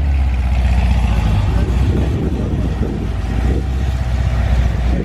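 A heavily cammed car engine idling with a choppy, uneven low rumble, the lope of an aggressive camshaft.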